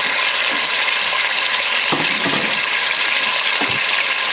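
Chicken and spices sizzling in hot oil in a pressure cooker, a steady hiss, with a couple of soft knocks partway through.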